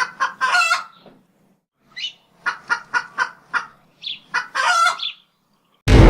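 Chickens clucking in a series of short clucks, with a couple of longer squawks. Just before the end, a loud, sustained, horn-like tone cuts in.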